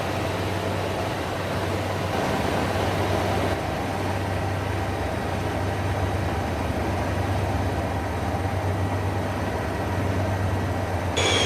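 Helicopter running: steady engine and rotor noise with a low, even hum. Near the end it changes abruptly to a high whine that slowly falls in pitch.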